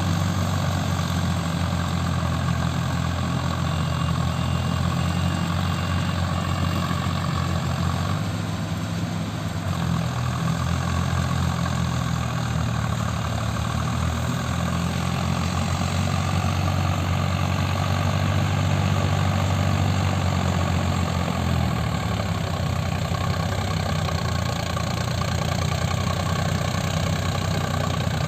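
Tractor diesel engine running at a steady low speed, with a brief dip in level about a third of the way in and a slight change in its tone near the end.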